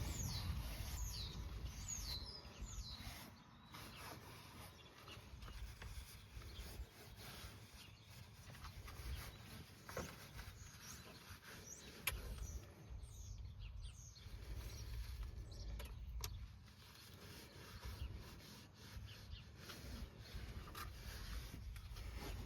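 A small bird chirping, with a quick run of short falling chirps in the first few seconds, over a steady low rumble of outdoor background noise. A few faint clicks come later on.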